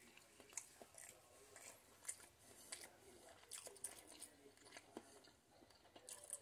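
Faint mouth sounds of a person chewing a bite of a sausage, egg and cheese croissant sandwich: small irregular clicks and smacks.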